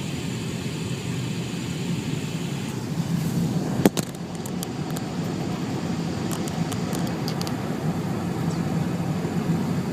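Steady low rumble of road and engine noise inside a moving car's cabin, with a sharp click about four seconds in.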